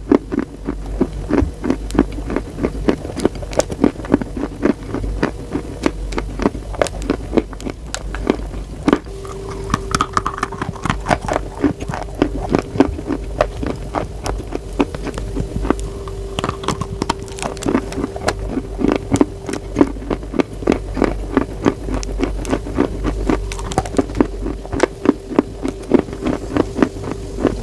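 Close-miked crunching of chalk being bitten and chewed, a dense run of sharp crackling clicks several times a second. A steady low hum comes in about nine seconds in and stays under the crunching.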